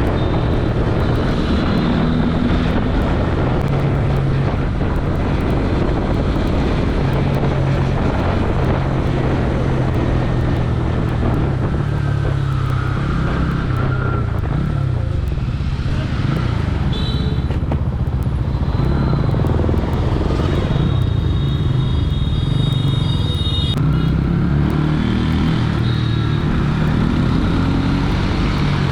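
Bajaj Pulsar N160's single-cylinder engine running while riding, its pitch rising and falling with the throttle.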